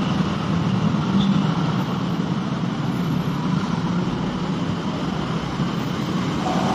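Diesel engine of a Scania K410CB bus running steadily, a low drone over road and traffic noise.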